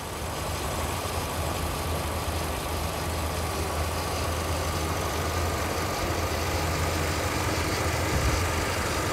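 Toyota 1NZ-FE 1.5-litre four-cylinder petrol engine idling steadily and smoothly, heard close up in the open engine bay: an even low hum with a faint steady high tone over it.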